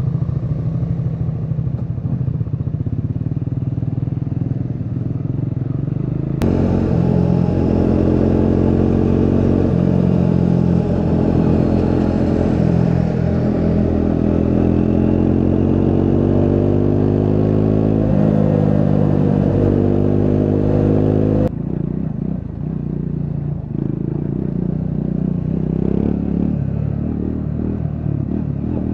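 Triumph Scrambler 400 X's single-cylinder engine running, its note slowly rising and falling with engine speed. The sound changes abruptly twice, about six seconds in and again about twenty-one seconds in, getting louder and brighter in between.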